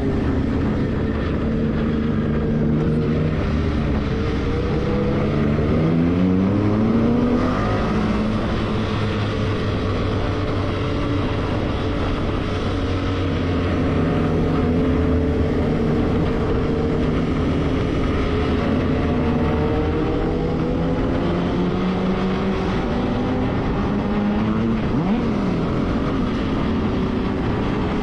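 Motorcycle engine under way, its note climbing as it accelerates and dropping at a gear change, then holding and rising again, over a steady rush of wind and road noise.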